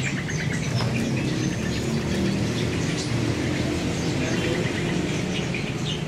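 Many small caged birds chirping and twittering in short scattered calls, over a steady low background hum.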